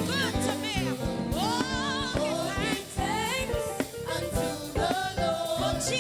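Gospel praise music: a singer's voice with runs and slides over band accompaniment with a steady drum beat.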